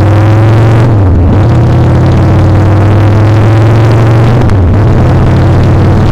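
Motorcycle engine running loud and close while riding, a steady low note briefly broken about a second in and again a little past the middle.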